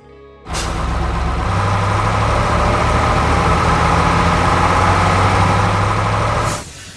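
Heavy diesel engine of quarry machinery running steadily with a constant low hum, cutting in suddenly about half a second in and cutting off suddenly near the end.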